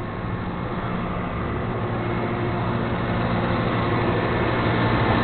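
Flatbed tow truck's engine running steadily, its hum slowly getting louder.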